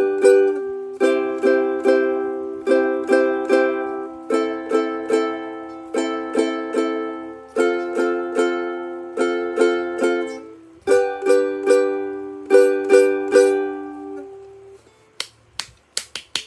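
Instrumental music: strummed chords on a small plucked string instrument, likely a ukulele, in a steady rhythm, each chord ringing out. The strumming stops about two seconds before the end, and a few sharp clicks follow.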